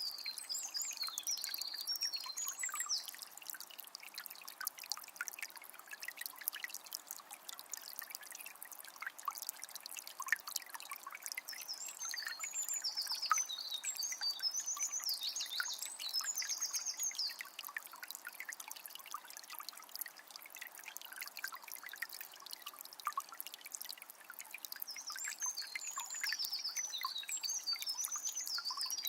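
Small spring trickling steadily, with songbirds singing in short phrases a few times: at the start, in the middle and near the end.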